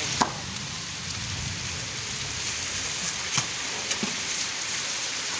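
Heavy rain falling steadily, a constant hiss broken by a few sharp drip-like ticks.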